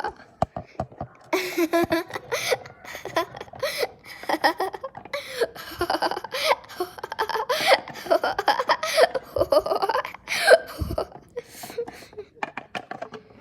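A person laughing hard in repeated fits, trailing off near the end.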